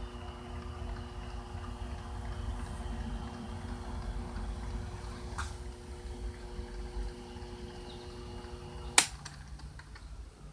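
A workshop machine tool runs with a steady mechanical hum. About nine seconds in there is a single sharp click, and the hum stops abruptly.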